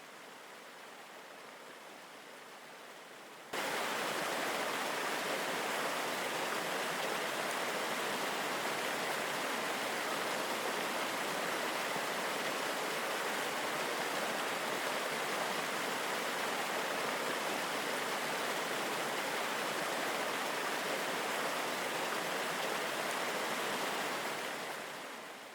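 Steady rush of falling water from a waterfall, softer at first, then abruptly louder about three and a half seconds in, holding even and fading out near the end.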